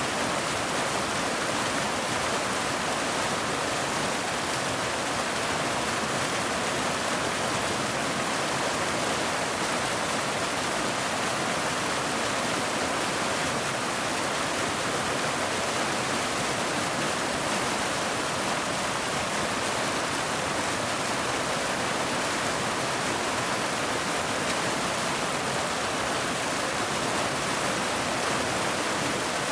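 Steady heavy rain: an even, unbroken hiss with no separate drops, thunder or changes standing out.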